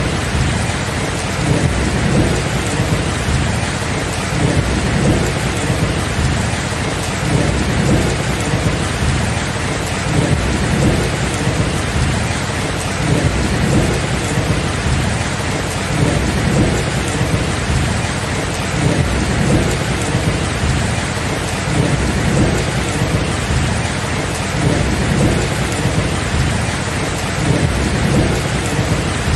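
Steady heavy rain with a continuous low, rolling rumble of thunder swelling and easing underneath, with no sharp claps.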